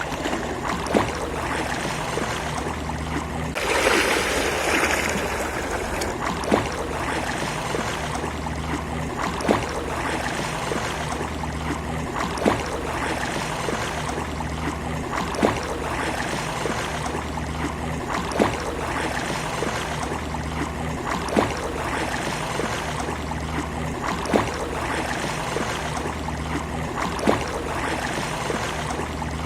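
Sea waves washing on a beach: a steady rush of water, with one louder surge about four seconds in. A short, sharp tick recurs about every three seconds.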